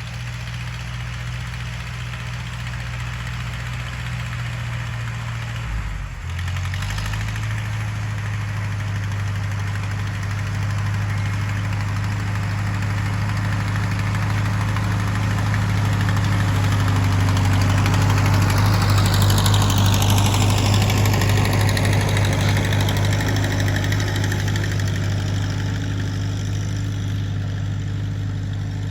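Tractor engine running steadily, with a brief break in its note about six seconds in. It grows louder to a peak about two-thirds of the way through, then eases off slightly.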